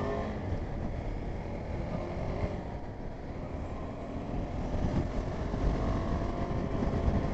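KTM 390 Adventure's single-cylinder engine pulling away and accelerating, its pitch rising at first and then running fairly steady, over a low wind rumble on the riding microphone.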